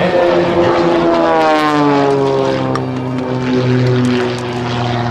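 Extra 300 aerobatic plane's six-cylinder Lycoming 540 engine and propeller droning in flight at high speed, the pitch dropping about one and a half to two seconds in and then holding steady.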